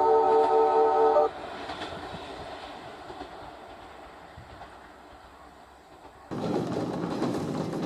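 A train's horn sounds a loud, steady chord that cuts off about a second in, leaving fading train noise. Near the end, after an abrupt cut, the rumble of a running train comes in.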